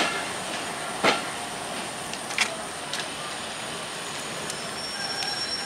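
Passenger train coaches rolling slowly past, with a steady rumble and a few sharp clacks of the wheels over the rail joints.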